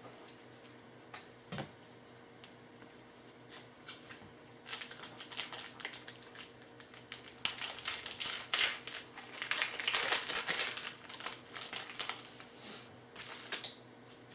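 Trading cards and a foil card-pack wrapper handled at close range: scattered clicks at first, then a long run of crinkling and rustling from about five seconds in until near the end.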